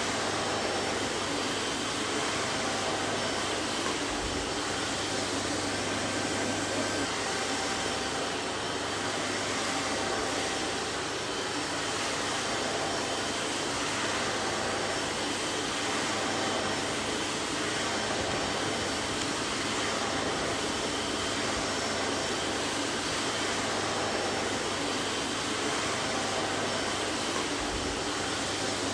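Vacuum cleaner running steadily: an even rushing of air with a low motor hum and a few faint steady whines, unchanging throughout.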